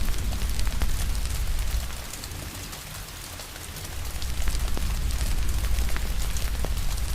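Steady rain with a wood fire crackling, scattered sharp pops over an even hiss. A low rumble under it sinks for about two seconds in the middle, then comes back.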